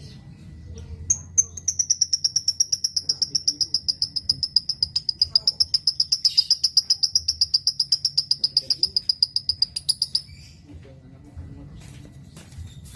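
Lovebird singing one long, rapid trill: a steady string of sharp, high chirps, about six a second, starting about a second in and stopping abruptly near ten seconds, its pitch easing slightly downward. A few scattered clicks and chirps follow near the end.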